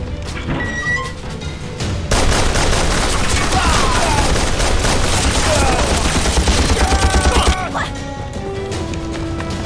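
A heavy burst of rapid gunfire, many shots in quick succession like a machine-gun and rifle fusillade, starting suddenly about two seconds in and cutting off about five seconds later, with background music running underneath.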